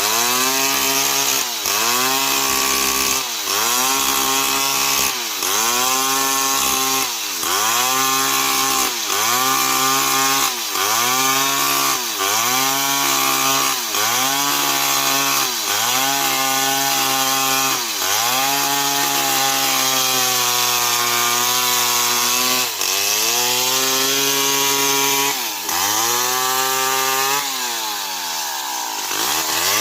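Old Stihl 070 two-stroke chainsaw running at high revs while cutting into a tree. Its pitch dips and recovers about every two seconds, holds steady for a few seconds in the middle, and drops deeply before climbing back near the end.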